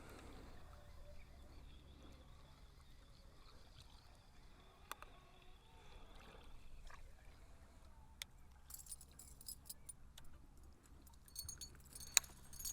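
Fishing tackle being handled in a boat: a few sharp clicks and two short spells of light metallic jingling, over a faint low hum.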